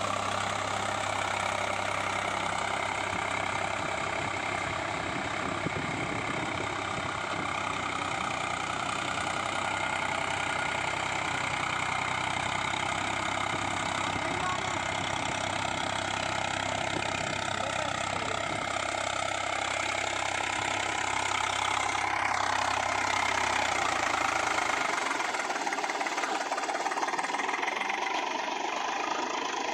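Eicher 485 tractor's three-cylinder diesel engine running steadily. Its deep low hum drops away about five seconds before the end while the rest of the engine sound carries on.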